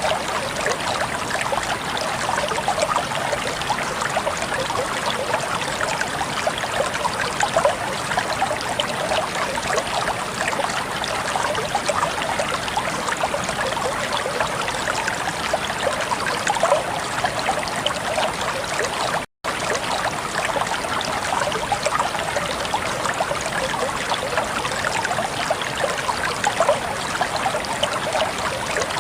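Flowing water, trickling and babbling steadily with many small splashes. The sound cuts out for an instant about two-thirds of the way through.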